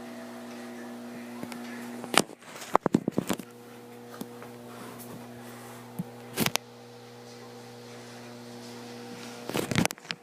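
Hampton Bay ceiling fan motor humming steadily, with loud clusters of sharp clicks or knocks about two seconds in, in the middle, and near the end.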